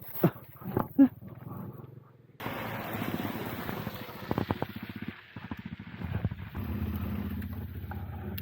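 A few sharp knocks, then after a sudden cut a motorcycle engine running steadily on the move under a steady rush of wind noise.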